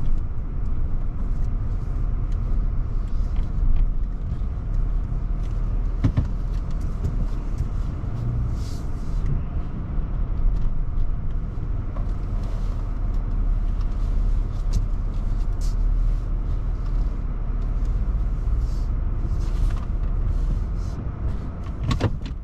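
Pickup truck driving, heard from inside the cab: a steady low rumble of engine and road noise with scattered small clicks and knocks.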